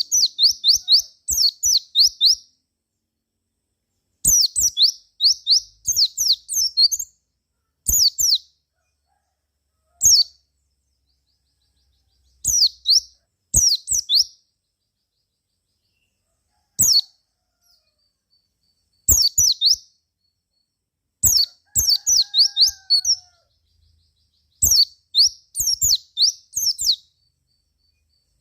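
White-eye (pleci) singing in short bursts of rapid, high chirping notes that each fall quickly in pitch, the bursts coming every second or few seconds with brief silences between.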